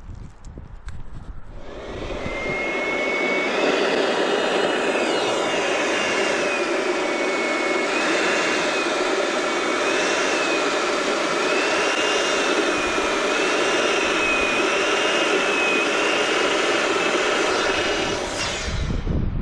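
Electric balloon inflator running for about seventeen seconds, blowing up a latex balloon; it starts and stops abruptly, a steady rush of air with a thin wavering whine over it.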